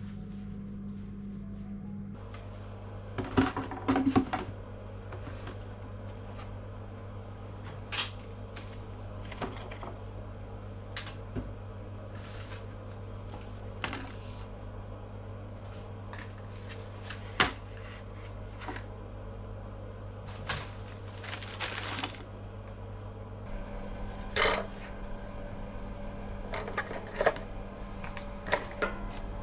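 Groceries being unpacked by hand: scattered light clicks and knocks of packages and containers being handled and set down, a louder cluster of knocks a few seconds in and a longer rustle of packaging about twenty seconds in, over a steady low hum.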